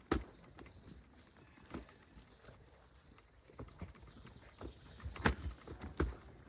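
Irregular footsteps and light knocks, with faint, short, high chirps repeating in the background.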